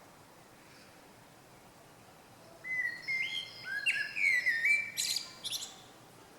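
A small songbird singing one phrase: after a quiet start, a run of clear whistled notes stepping up and down in pitch comes in about halfway through and ends in a few quick, scratchy high notes.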